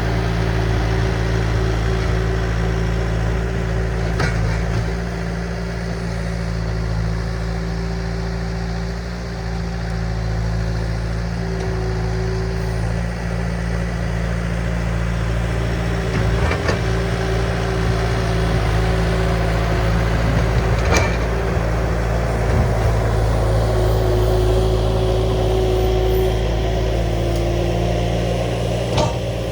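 Diesel engine of a compact machine, a skid steer or mini excavator, running steadily under work, with a wavering whine above the hum and a few sharp knocks.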